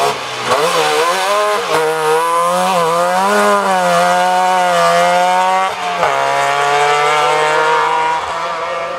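Trabant rally car's two-stroke engine revving hard, its buzzing note rising and falling with the throttle through the bend. About six seconds in the pitch drops at an upshift, then holds steady and fades near the end.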